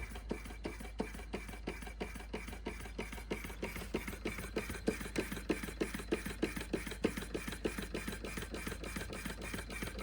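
Vintage George Carette 687/1 hot air Stirling engine running steadily, clicking evenly about four to five times a second.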